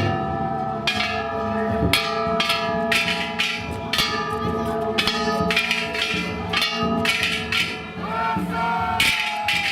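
Ishitori festival float's hand-struck bronze gongs (kane) and taiko drum being played together: gong strikes about once a second over a dense, continuous metallic ringing, with the drum beating underneath.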